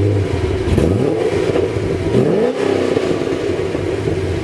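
2007 Chevrolet Corvette's 6.0-litre LS2 V8, breathing through long-tube headers and a Corsa exhaust, revved twice. Each time the pitch climbs and falls back to a rumbling idle.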